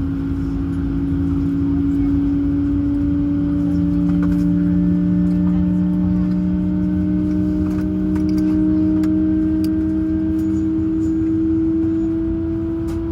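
Airbus A220-100's jet engine whine heard inside the cabin over a low rumble, its tones slowly rising in pitch as the engine spools up during startup.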